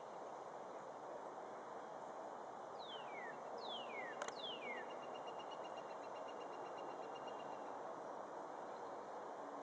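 Birds calling over a steady background hiss. About three seconds in there are three quick falling whistles, and then a fast, even trill that lasts about three seconds.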